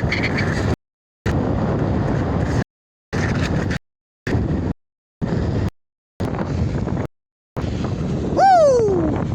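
Heavy wind rushing over the microphone of a bicycle racing downhill. The sound cuts out to silence six times. Near the end a single tone falls in pitch over less than a second.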